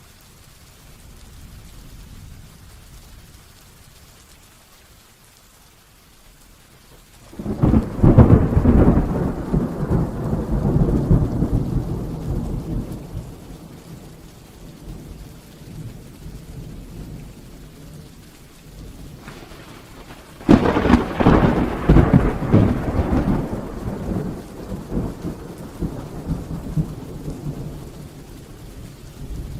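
Heavy rain falling steadily, with two loud claps of thunder: one about seven seconds in and another about twenty seconds in, each rolling away over several seconds.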